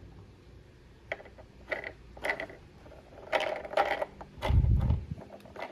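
Plastic toy van being handled and its wheels tested: scattered small clicks and rattles, with a louder low thump about four and a half seconds in.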